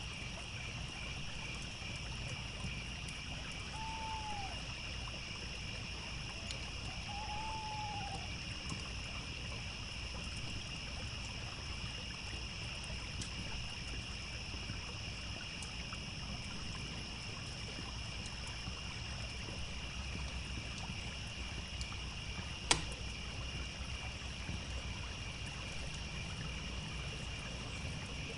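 Crickets chirring steadily over a low, even babble of a trickling stream. Two short arched calls sound about 4 and 7.5 seconds in, and one sharp pop of the crackling campfire comes about 23 seconds in.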